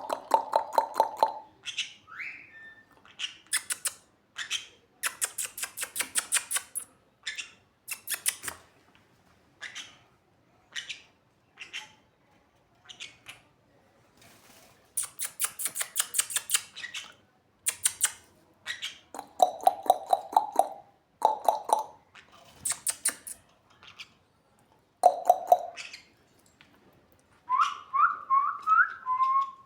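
Sun conure vocalizing: repeated bursts of rapid, shrill clicking chatter, broken by a few short pitched calls, with a run of rising whistles near the end.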